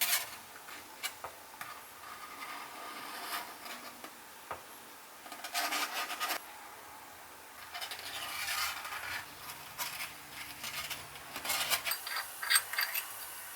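Irregular scraping and rubbing strokes on a rusty cast iron bookend, some lasting about a second, with a few sharp clicks near the end.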